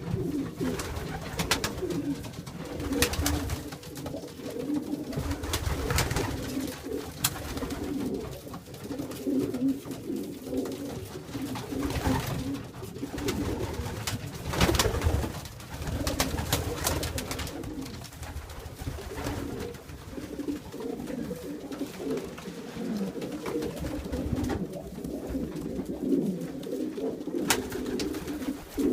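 Pigeons cooing almost without a break, a low warbling coo from several birds at once, with a few sharp knocks now and then.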